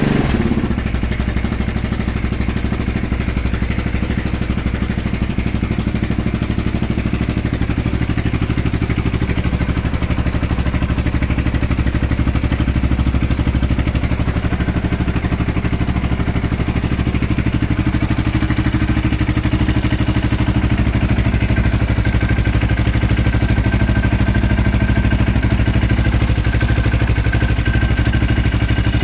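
A KTM LC4 620's single-cylinder four-stroke engine idling steadily while warming up from a cold start at about 5 degrees.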